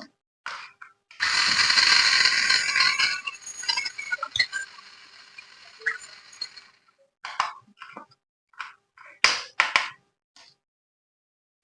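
Packaging and small plastic parts being handled: a dense crinkling rustle for about two seconds, thinning into scattered clicks and clinks, then a few short separate clicks and rustles.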